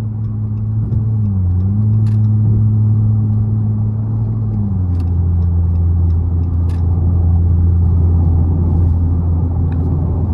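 Dodge car's engine running at highway speed with wet-road tyre noise, heard from inside the cabin. The engine note dips briefly about a second and a half in, then steps down to a lower, steady note about halfway through; a few faint ticks sound over it.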